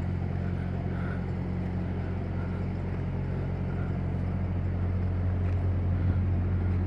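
A diesel engine idling steadily, a low even hum that grows slightly louder in the second half.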